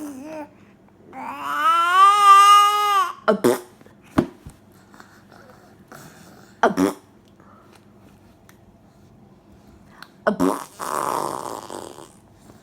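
Baby vocalizing while eating: a long, high, held squeal of about two seconds, a couple of short squeaks, then near the end a breathy, sputtering burst.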